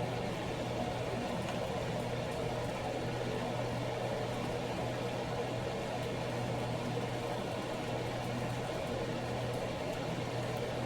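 Steady low mechanical hum of a running motor or fan, unchanging throughout.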